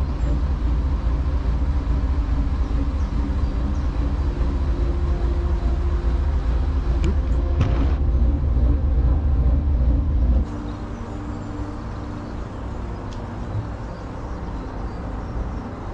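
The barge's inboard engine running steadily under way, a loud low hum that drops suddenly to a quieter running about ten seconds in.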